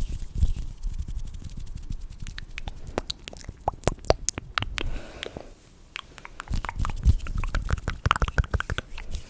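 Close-miked ASMR hand and mouth sounds: a dense run of quick clicks and pops over low rubbing thumps, easing into a brief lull a little past the middle before picking up again.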